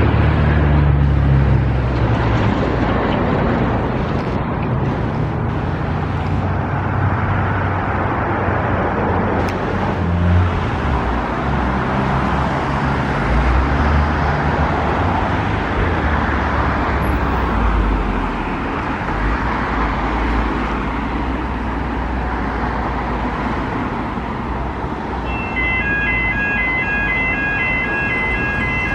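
Motor traffic rumbling past at a level crossing, the low rumble fading after about two-thirds of the way through. Near the end, the crossing's electronic warning bells start up with a rapid, evenly repeated ringing tone, signalling an approaching train.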